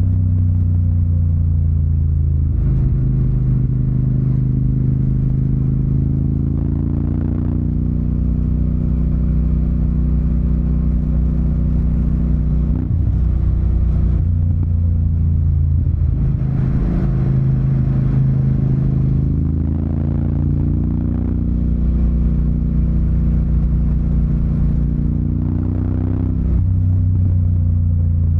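Yamaha TDM 900's parallel-twin engine running through an Akrapovic exhaust on the move. The engine note rises and drops in steps several times as the bike pulls and eases off through the gears.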